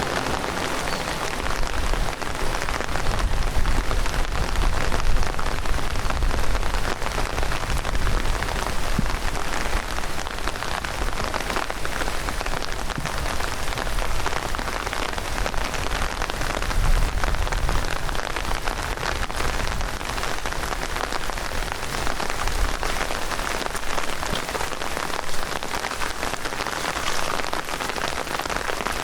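Heavy downpour: a dense, steady patter of raindrops hitting the ground and vegetation, with low rumbles coming and going.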